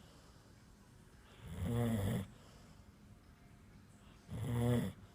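Labrador retriever snoring in her sleep, two long, buzzing snores about three seconds apart.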